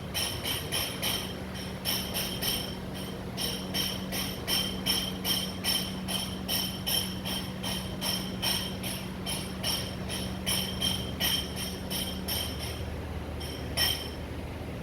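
Repeated metallic jingling: short ringing strikes, all with the same high tones, about three a second, over a steady low hum. The strikes stop a little before the end, then come twice more.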